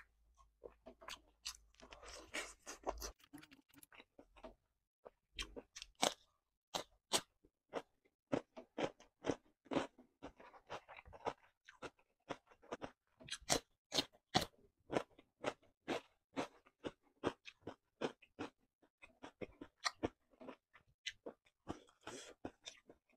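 Close-miked chewing with many sharp, irregular crunches throughout: a person eating a meal of spicy squid, rice and raw cucumber by hand, mouth-to-microphone.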